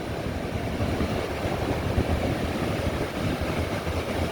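Wind buffeting the microphone in a steady low rumble, with the hiss of ocean surf underneath.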